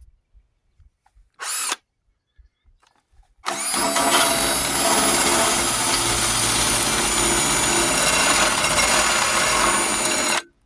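Power drill stripping paint from sheet metal: a short blip, then a steady run of about seven seconds with a whining motor, cutting off near the end.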